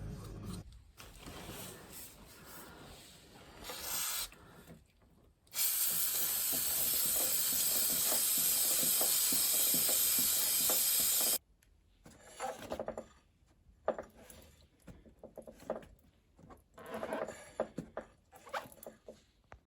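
Aerosol chain-care spray can hissing out one steady jet onto a motorcycle drive chain for about six seconds, then cutting off suddenly. Softer rustling comes before it, and scattered light clicks and knocks follow.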